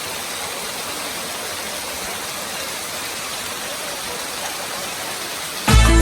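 Steady rush of a waterfall, an even hiss of falling water. Loud Latin dance music cuts in suddenly near the end.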